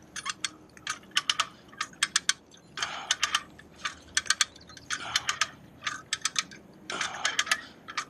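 A hand-operated ratchet worked in strokes: quick runs of sharp metallic clicks, about one run a second, with short pauses between them.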